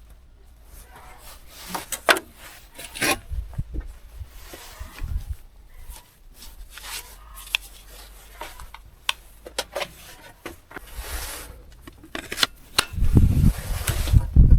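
Irregular scraping, rubbing and sharp clicks from hand work on metal and wood tools, with a run of heavy low thumps near the end.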